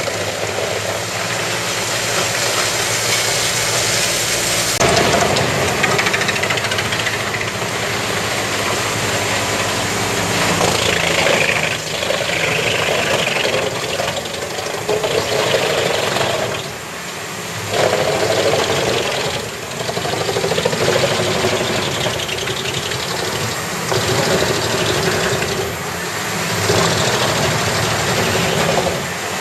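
Kesla PTO-driven drum chipper, powered by a Valmet wheel tractor, chipping pine: the tractor engine drones steadily under load beneath a dense rush of chipping noise that swells and eases as the wood feeds through, with a few brief lulls.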